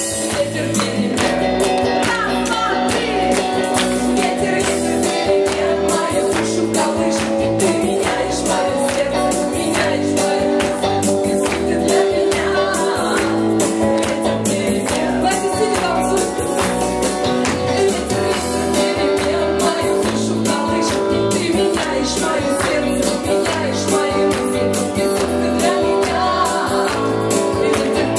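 Live worship band music with a steady beat.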